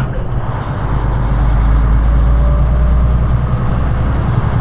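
Tractor-trailer's diesel engine pulling as the truck accelerates onto the interstate, a deep drone that swells about half a second in and holds.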